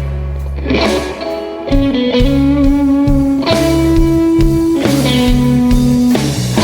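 Live recording of a slow blues-rock song in an instrumental passage: electric guitar playing long held notes over bass and drums.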